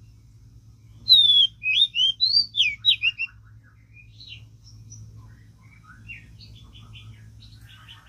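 A songbird singing a loud phrase of quick, sweeping whistled notes, starting about a second in and lasting about two seconds, followed by quieter scattered chirps and calls.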